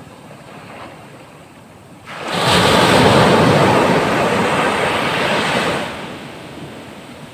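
Ocean waves breaking on the shore at rising tide: a quiet wash, then about two seconds in a wave crashes loudly and its rush of surf lasts about three and a half seconds before falling back to a quieter wash. Wind buffets the microphone.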